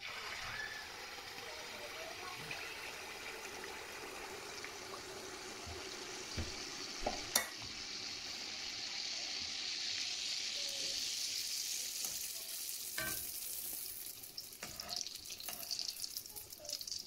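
Rice-flour handesh batter hitting hot oil and deep-frying, a steady sizzle that starts suddenly as the batter goes in. It turns more crackly near the end, with a few sharp knocks along the way, the sharpest about seven seconds in.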